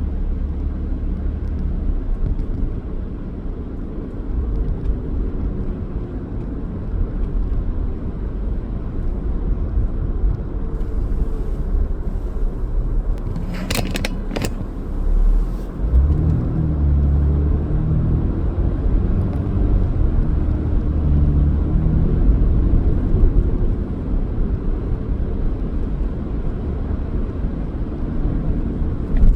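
Car driving: steady low engine and road rumble, with the engine tone rising and falling for several seconds past the middle. Two sharp clicks come close together about halfway through.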